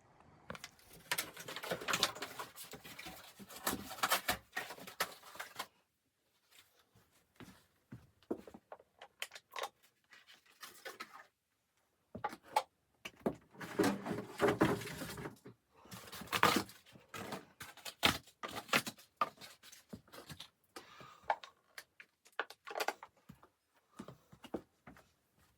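Irregular handling noises: clusters of sharp clicks, knocks and rustling, broken by short quiet gaps, the densest stretches near the start and around the middle.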